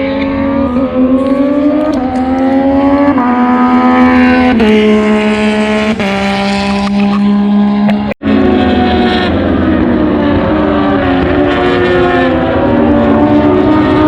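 Racing motorcycle engines at high revs passing on the circuit, several bikes overlapping, their pitch climbing in steps through upshifts. The sound cuts out for an instant about eight seconds in, then more bikes follow with their pitch rising and falling.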